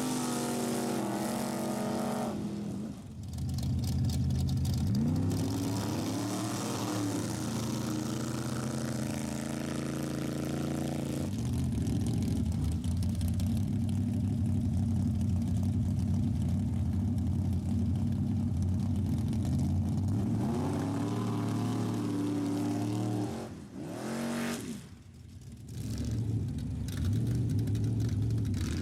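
A rat rod's engine revving hard and held at high revs, as in a burnout. The revs drop briefly about three seconds in and again near the end, and rise again after each drop.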